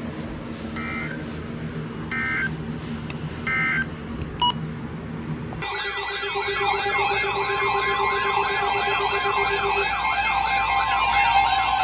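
NOAA Weather Radio alert: three short two-pitch data bursts (the SAME header that opens a new warning), then, about halfway through, a fast wailing siren-like alert tone with a steady tone under it.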